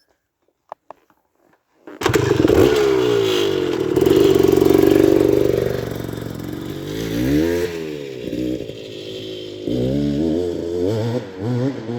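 A few faint clicks, then about two seconds in an off-road vehicle's engine cuts in loud and revs hard, its pitch rising and falling again and again as the throttle is worked on the hillclimb.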